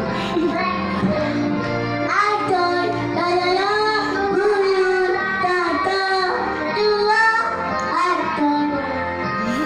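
A child singing a melody over musical accompaniment.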